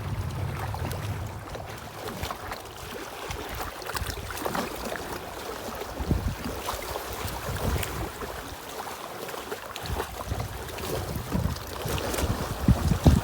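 Wind buffeting the microphone in uneven gusts, with irregular splashing and lapping of water.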